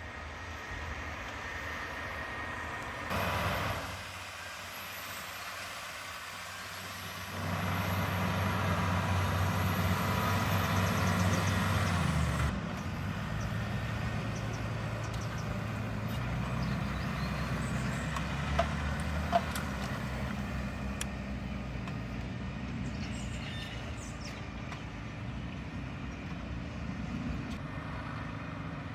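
Valtra Q Series tractor's six-cylinder diesel engine running under load while pulling a Lemken five-furrow plough. It gets louder for about five seconds around a third of the way in, then settles to a steady drone.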